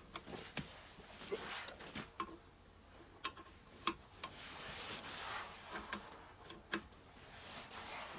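Lug wrench and wheel nuts being worked during a tyre change: scattered sharp metallic clicks and knocks at irregular intervals, with stretches of scraping and rubbing.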